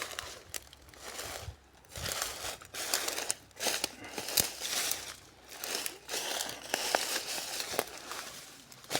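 Footsteps crunching through dry leaves and brush: irregular crackling crunches several times a second, with brief pauses between steps.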